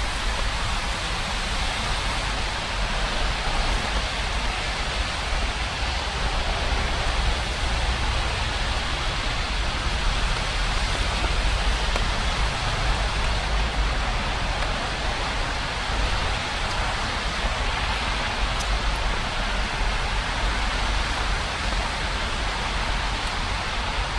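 Steady rain falling, an even hiss with no breaks, over a low rumble.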